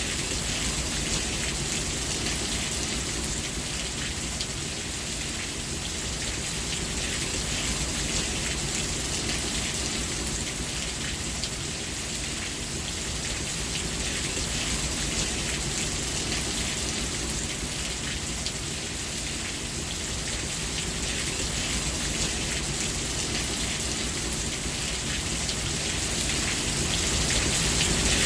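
Steady rain falling on a surface: a dense, even hiss of drops with a low rumble underneath. It grows slightly louder near the end.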